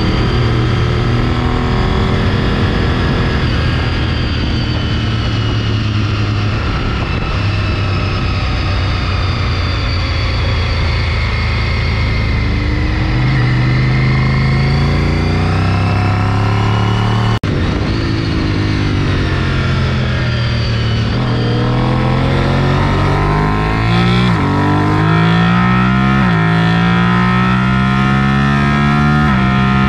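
Sport motorcycle engine running hard, its pitch rising and falling. Near the end it climbs through several gears in quick succession, each rise broken by a drop at the shift. The sound cuts out briefly a little past halfway.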